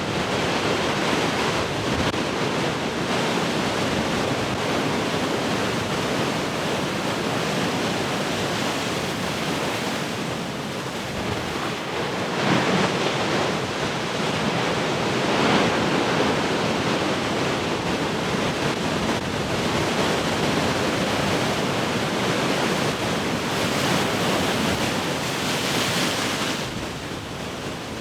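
Heavy ocean surf: large waves breaking and washing in a continuous roar, swelling louder every few seconds as sets crash, with wind buffeting the microphone.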